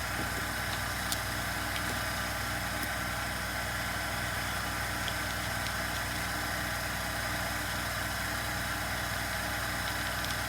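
Steady background machine hum, even and unchanging, with a few faint small clicks.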